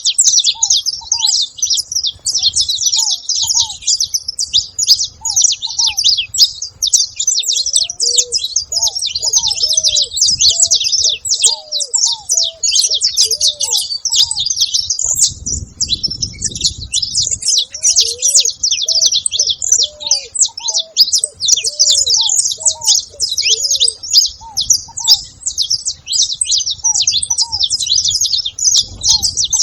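A flock of saffron finches chattering together, many high chirps overlapping without a break. Under them runs a lower, short call repeated every second or so from another bird, and there is a brief low rumble around the middle.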